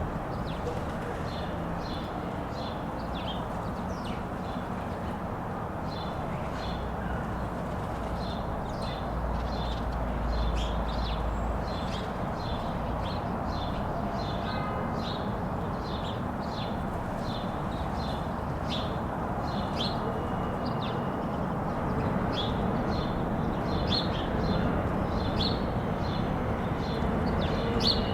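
Small birds chirping: many short, high chirps repeating throughout, over a steady low rumble of city traffic.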